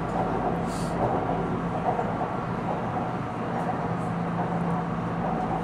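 Inside a moving elevated train carriage: a steady running rumble with a low, even hum underneath.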